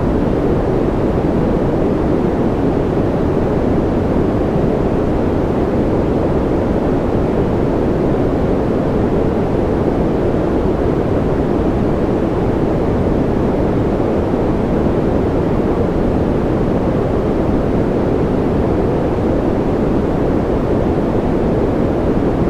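Steady sleep-track noise: an even, unchanging hiss with a deep, muffled character, most of its weight low and little treble.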